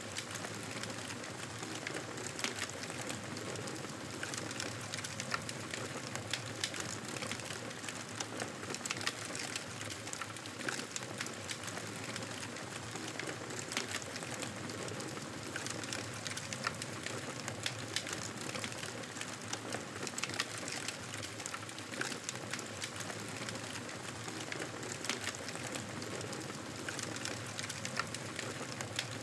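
Campfire burning: a steady hiss of flames with frequent, irregular sharp crackles of burning wood.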